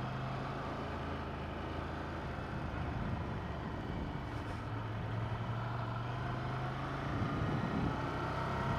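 Ducati Monster 797's air-cooled L-twin engine running at low, steady revs. Its note wavers briefly about three seconds in and again near the end.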